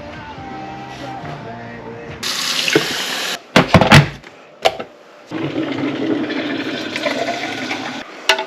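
Water running from a tap in two spells, with a few sharp knocks and clatters between them, over light background music.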